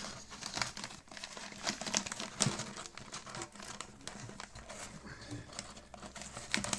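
Large paper vacuum dust bag crinkling and rustling as it is handled and pushed onto the tank's inlet, with irregular crackles and light knocks.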